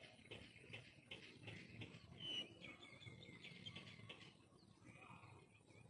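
Faint bird chirps, short calls repeated several times a second, with a brief sharp whistled note about two seconds in, over low background rumble.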